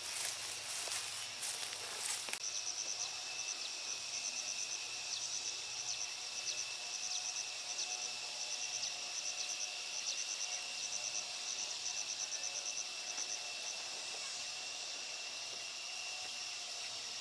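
Insects chirping in quick regular pulses over a steady high-pitched drone; the pulsing fades out about three-quarters of the way through while the drone carries on. Rustling clicks in the first two seconds.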